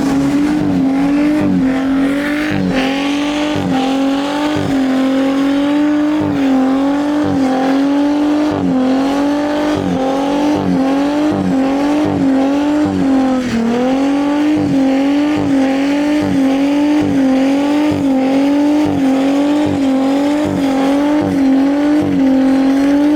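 Car engine held at high revs for a long stretch, its pitch steady but wavering in a regular pulse a little more than once a second, with a brief dip about halfway through. This fits a car doing a burnout or donuts.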